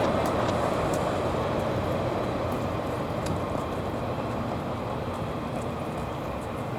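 A train rolling past on the rails, a steady rumble that slowly fades as it moves away.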